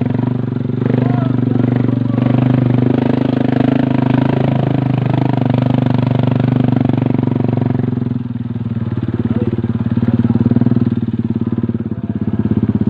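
Motorcycle engine running steadily; about eight seconds in, its note drops and turns into a slower, pulsing beat.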